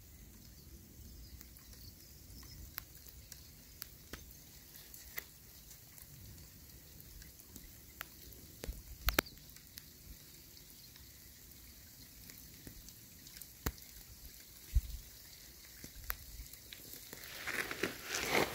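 First raindrops of a thunderstorm shower: scattered single drops ticking close by, a few louder than the rest, over a low wind rumble. Near the end the rain thickens into a steadier hiss.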